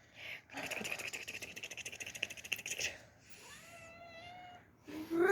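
A cat: about three seconds of fast, even crackling, then a faint meow, and a louder rising meow near the end.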